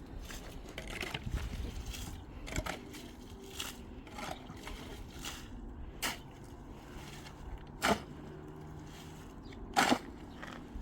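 A series of sharp knocks, one every two seconds or so, the later ones loudest, over low background noise.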